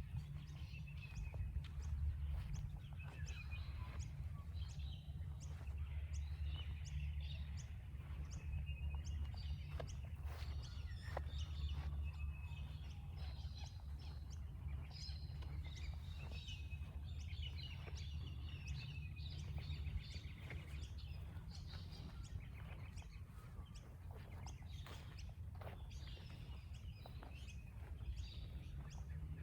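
Many birds chirping and calling at once, short calls overlapping throughout, over a steady low rumble.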